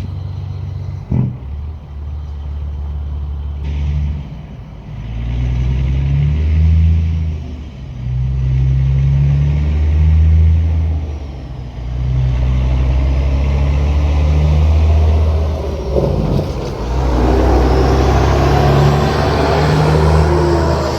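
A road vehicle's engine pulling away and accelerating through several gears. The low engine note builds in stretches of about four seconds, each broken by a brief dip at a shift.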